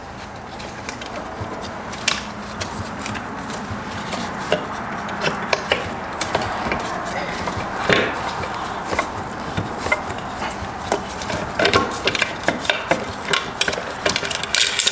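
Irregular metal clicks, knocks and scraping as parts of a Subaru STI six-speed transmission are worked apart by hand.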